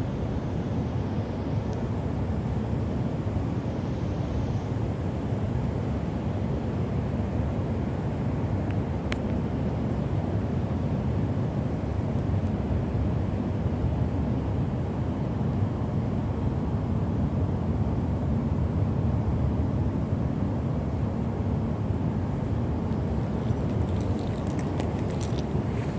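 Heavy rain with wind: a steady low rushing noise, with a few faint crackles near the end.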